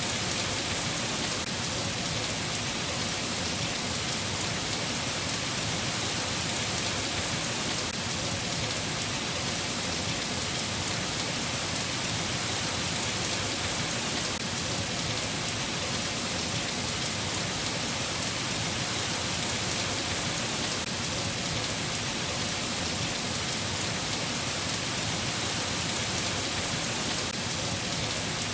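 Steady rain falling, an even hiss without let-up or thunderclaps.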